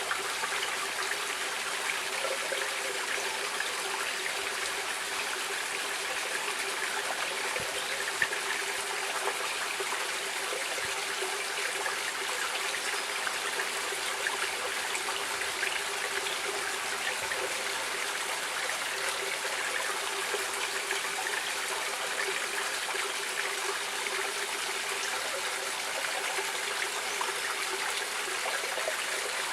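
Stream water running and trickling, a steady, even rush with no let-up. A single brief tick stands out about eight seconds in.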